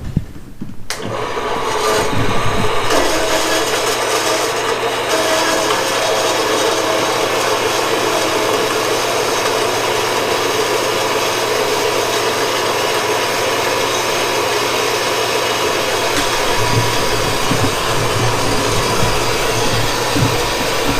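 Power tool cutting through a metal cross member: a steady, loud cutting noise that starts about a second in and runs unbroken until the end piece comes off.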